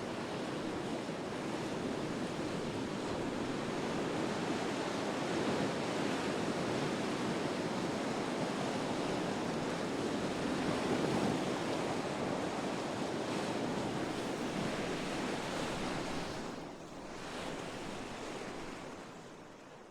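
Rough sea: waves breaking and washing in a steady rush, driven by a strong onshore wind, with some wind buffeting the microphone. The sound dips briefly near the end and then fades out.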